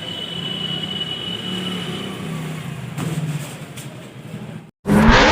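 Motorcycle engine running with a slightly wavering pitch. Near the end it cuts out abruptly and loud music with heavy booms begins.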